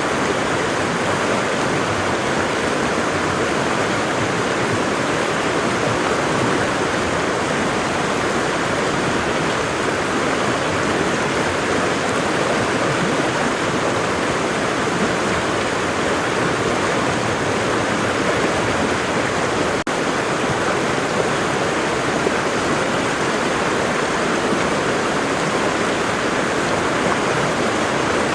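Waterfall, water pouring and splashing in a steady, dense rush that does not change, with a momentary dip and tiny click about twenty seconds in.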